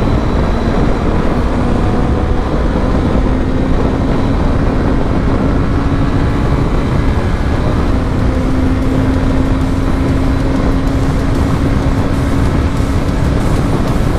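Honda CB500X's parallel-twin engine held at high revs at speed, its note steady and creeping slightly higher, under heavy wind rush on the helmet microphone.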